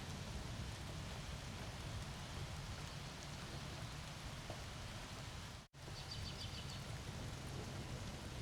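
Steady rain falling during a thunderstorm, a constant hiss over a low rumble. Just after halfway the sound cuts out completely for an instant. Soon after, a brief burst of rapid, high-pitched chirping sounds.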